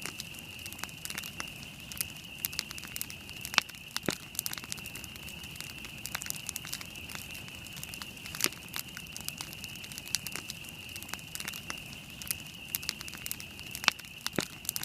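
Wood campfire burning, with sharp, irregular crackles and pops over a low steady rush and a steady high-pitched tone underneath.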